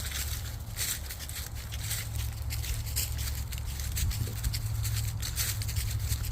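Footsteps crunching along a trail, a sharp crunch roughly every half second to second, over a steady low rumble of wind on the microphone.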